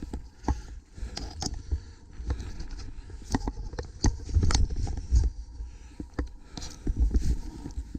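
Mountain bike clattering over rough trail: irregular sharp knocks and rattles from the bike over a low rumble of tyres and wind buffeting the microphone, busiest about halfway through.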